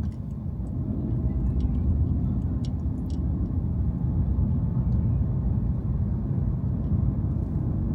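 Steady low road and engine rumble inside a moving car, with a few faint ticks.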